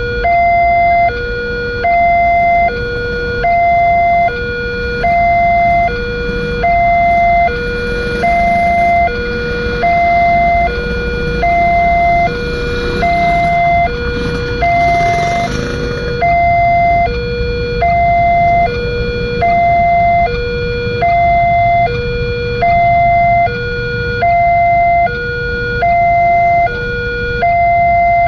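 Railroad level-crossing warning alarm sounding: an electronic two-tone signal alternating between a higher and a lower tone, each held about a second, repeating steadily, which signals that a train is approaching and the barrier is closing. A steady low rumble runs underneath, swelling with extra noise partway through.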